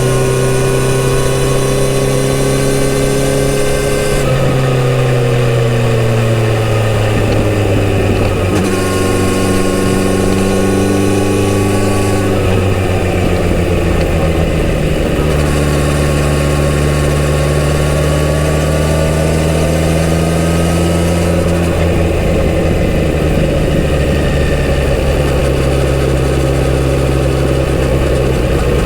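Kawasaki Z900RS inline-four engine on its stock exhaust, heard while riding. The engine note changes pitch several times, falling at around 4, 12 and 21 seconds in, as the revs and speed change, over a steady rushing noise.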